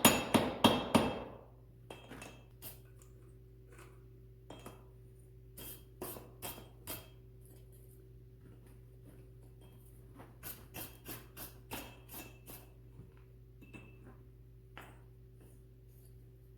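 Hand hammer forging half-inch steel chain links on an anvil. A run of heavy blows, about three a second, stops about a second in. Lighter taps and ringing clinks follow in small clusters, over a steady low hum.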